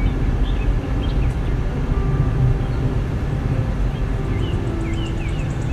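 Steady road and engine noise of a car driving along, a low rumble heard from inside the cabin.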